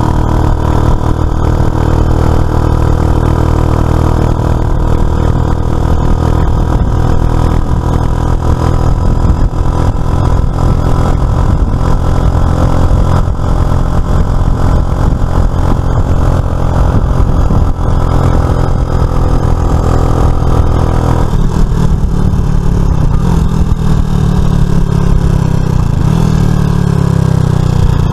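Suzuki FL125 Address scooter's single-cylinder 125 cc engine running steadily under way. About three-quarters through the note drops lower and then wavers up and down in pitch.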